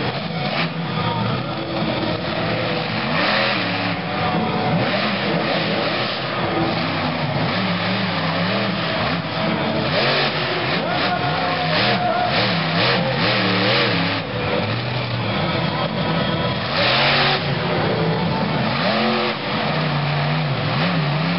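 Monster truck engine revving hard during a freestyle run, its pitch rising and falling again and again, with bursts of noise.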